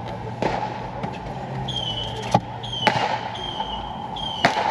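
Fireworks exploding: four sharp bangs at irregular gaps, the loudest near the end, each with a short echo. Through the second half a high beeping tone repeats in short pulses.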